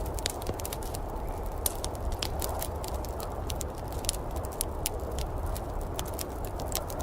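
Wood fire crackling in a fireplace, with frequent irregular sharp pops and snaps over a steady low rumbling noise.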